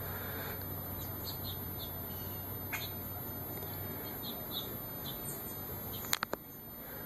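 Small birds chirping in short, high calls over steady background noise. Near the end come a few sharp clicks, the loudest sound here.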